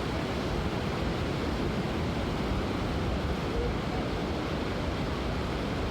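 Steady rushing of wind over the microphone, mixed with the noise of ocean surf.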